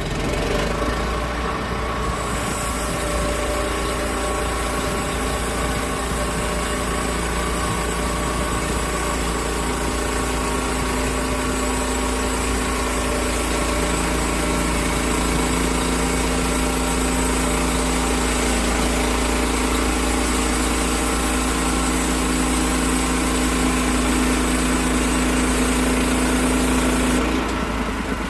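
Sawmill engine running at a steady speed while milling an oak log. A high hiss, typical of the blade cutting through the wood, starts about two seconds in and stops near the end.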